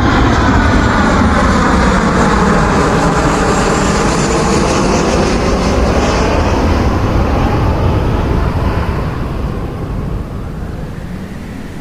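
Jet airliner passing close, its engines loud and steady, then fading away over the last few seconds.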